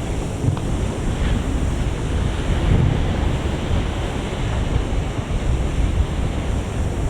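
Ocean surf washing onto a beach, with wind gusting on the microphone.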